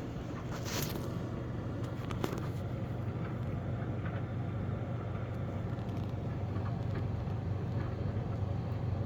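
Small portable clothes dryer running with a steady low hum. There is a short hiss about a second in and a click a little after two seconds.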